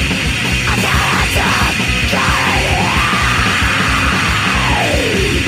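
Crust punk demo recording: distorted guitars and pounding drums with a yelled vocal, and a long tone that rises and then slides down in pitch toward the end.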